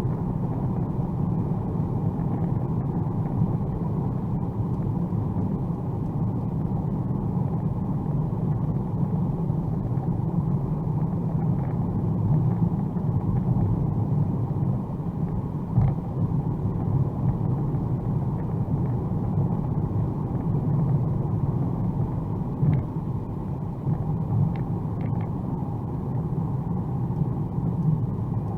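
Steady low rumble of road, tyre and drivetrain noise heard inside the cabin of a 2021 Mercedes-AMG A35 4Matic+ cruising on a wet motorway, with a few faint ticks.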